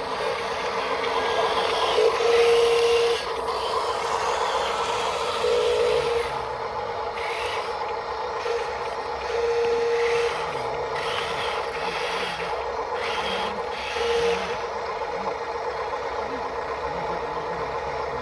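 Small electric motors of radio-controlled construction models running with a steady whine that gets louder in short spurts four times, over a continuous mechanical hum.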